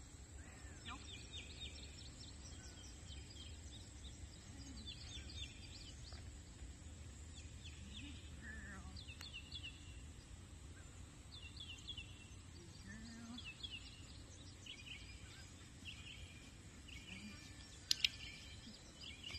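Faint outdoor ambience: short bursts of bird chirps repeating every second or two over a steady low rumble, with one sharp click near the end.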